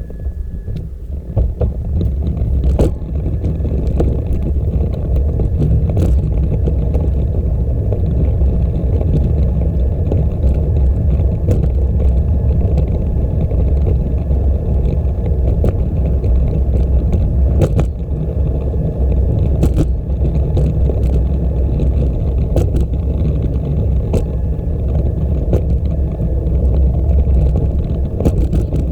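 Riding noise from a moving bicycle: a steady low rumble of wind on the microphone and tyres on the trail, with scattered clicks and rattles from the bike. It swells about a second in as the bike gets going.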